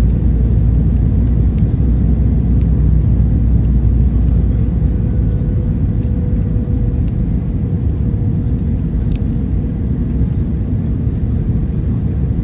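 Airbus A321-200 cabin noise: a loud, steady rumble of the engines and airflow with a faint steady hum. The deepest part of the rumble eases about eight seconds in.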